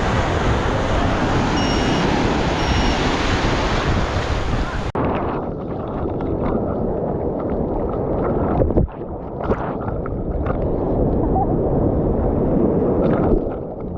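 Ocean surf washing in under wind buffeting the microphone. The sound turns abruptly duller about five seconds in.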